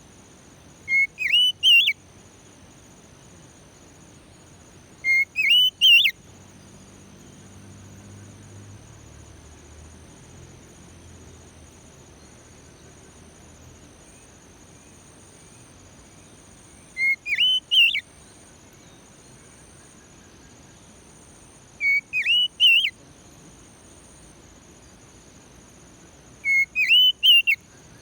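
Oriental magpie-robin (kacer) whistling the same short phrase of three or four quick notes five times, several seconds apart, over a steady high trill of crickets.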